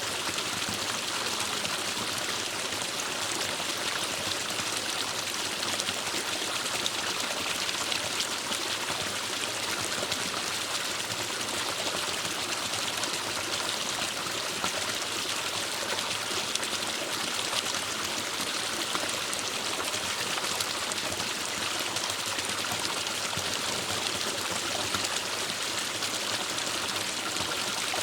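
Forest stream flowing steadily over rocks, a continuous rushing and trickling of water.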